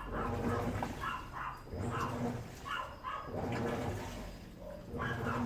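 Midea Wave-Agitator top-load washing machine agitating the load in water: a rhythmic swish and slosh that repeats about once a second over a low motor rumble.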